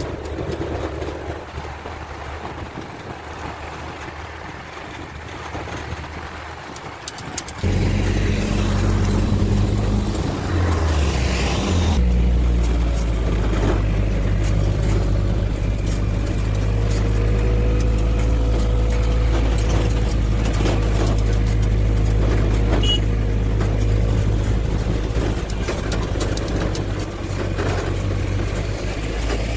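A motor vehicle's engine running, a steady low hum that comes in suddenly about eight seconds in, dips and shifts in pitch briefly a few seconds later, then holds steady.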